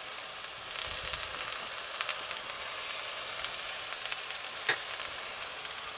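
Thick tomato slices sizzling as they fry in a hot stainless steel sauté pan: a steady hiss with scattered crackles and pops.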